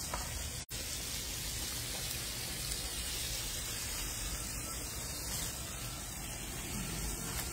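Chicken pieces frying in a wide pan of olive oil over a gas burner: a steady sizzle.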